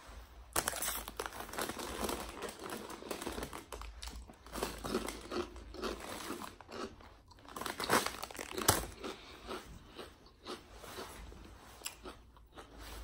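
A person chewing a mouthful of sub sandwich, with crunching throughout and two sharp clicks a little under a second apart about eight seconds in.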